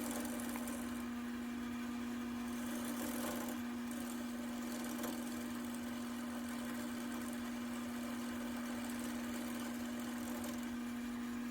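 Wood lathe running with a steady hum while a walnut table leg spins on it, with a fainter scraping from a scraper cutting down the end of the leg.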